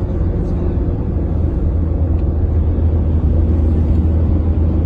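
Steady low rumble of road traffic: vehicle engine and tyre noise droning without a break.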